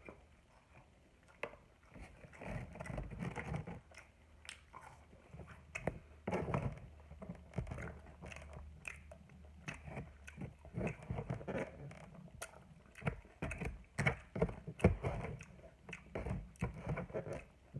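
Close-miked chewing, with wet mouth smacks and irregular crunchy clicks from a mouthful of cheeseburger and fries.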